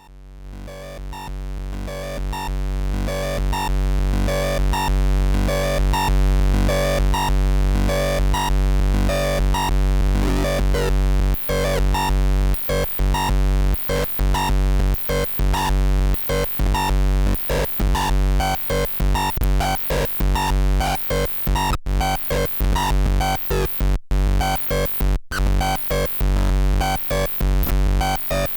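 Electronic noise music from a live sound performance: it fades in over the first few seconds, then holds a deep steady drone under a busy run of short repeated pulses and clicks, which grow denser with sharper high clicks about ten seconds in.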